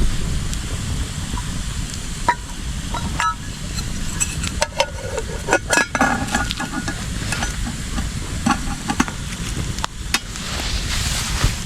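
Metal cookware clinking and scraping as pasta is put on over a campfire, with meat sizzling in the pan. A burst of sharp clinks with a metallic ring comes about five to seven seconds in, and a hiss rises near the end.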